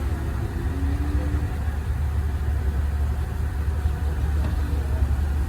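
Heavy machine engine running steadily with a deep, even low tone.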